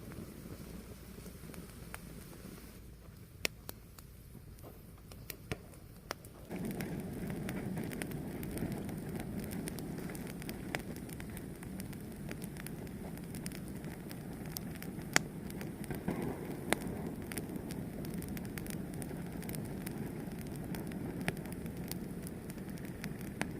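Fire burning, with scattered sharp crackles and pops over a steady rush of flames. The rush grows louder about six seconds in.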